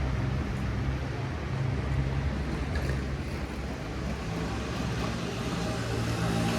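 Street traffic noise with a motor vehicle's engine running steadily at a low hum.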